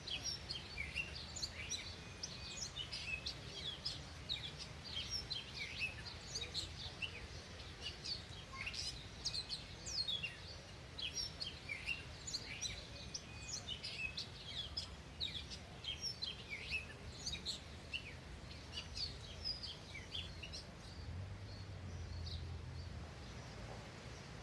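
Many small birds chirping at once, a dense run of short, high, mostly falling chirps that thins out near the end, over a low steady rumble.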